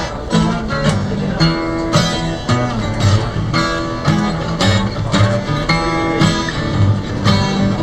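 Blues guitar playing an instrumental passage between sung verses: a steady rhythm of plucked chords and bass notes, about two strokes a second.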